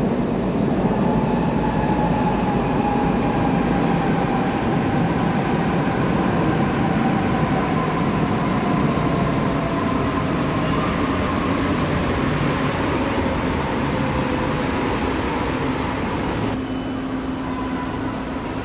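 Red S-Bahn electric multiple unit running through an underground station, with the rumble of its wheels and a motor whine that falls slowly and steadily in pitch as the train slows.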